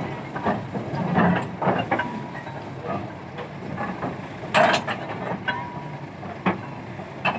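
Nissan D308-S crawler piling rig on the move: its engine runs steadily under repeated irregular metal clanks and knocks, with one sharp, louder clank about four and a half seconds in.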